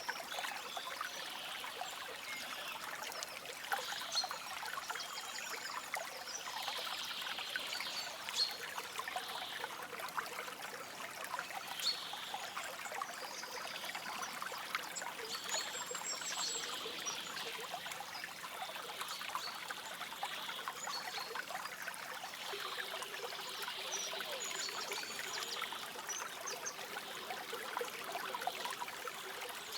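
Forest stream trickling and babbling steadily, with soft, brief bird chirps now and then above the water.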